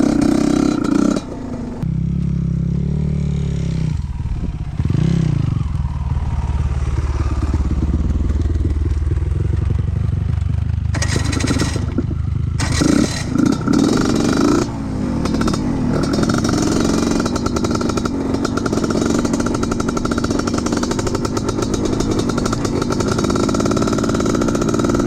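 Off-road trail motorcycle engine running under the rider, its revs rising and falling a few seconds in, then settling lower. From about halfway it is louder and rougher.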